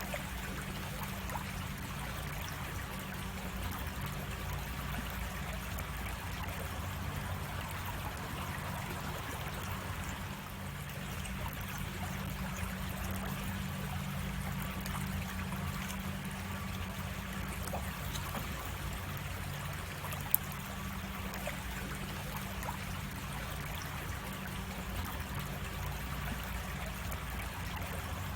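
Water of a small cascading creek running steadily over rocks. A single sharp click is heard about twenty seconds in.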